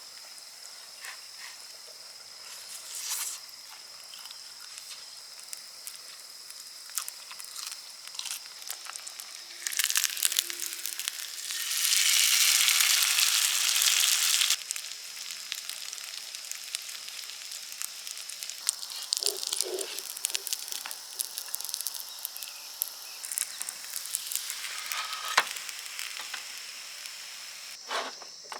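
Food frying in a hot pan, the sizzle flaring up loudly about 10 seconds in and again for a couple of seconds from about 12 seconds, with scattered clicks of utensils, over a steady high chirping of crickets.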